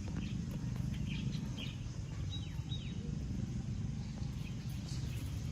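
Outdoor ambience: a steady low rumble with scattered bird chirps, including a short high two-note whistle about two and a half seconds in.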